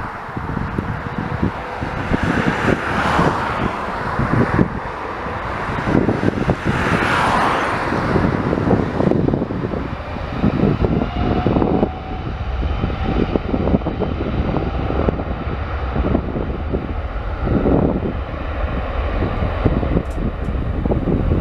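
Boeing 787-9's Rolls-Royce Trent 1000 turbofans at takeoff thrust: a loud, continuous rumble with a crackling texture and a faint whine, with wind buffeting the microphone.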